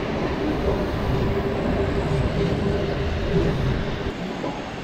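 Bernese Oberland Railway narrow-gauge train running at speed: a steady rumble of wheels on rails, with a faint steady hum through the middle.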